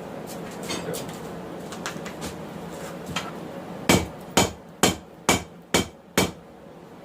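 Hand hammer striking hot 1080 high-carbon steel on an anvil, drawing out a knife blade's profile. The blows start about four seconds in, at an even rhythm of about two a second, six of them. Before that there is a steady hiss with a few faint clicks.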